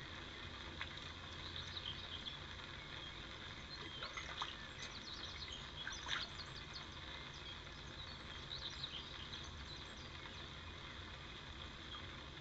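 Small birds chirping and calling on and off over a low, steady outdoor background. A brief, sharper sound stands out about six seconds in.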